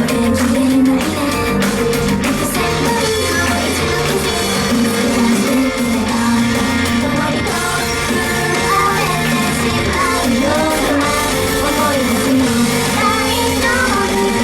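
Idol pop song performed live through a live-house PA: the group's voices singing over loud rock-style backing music with guitar and drums.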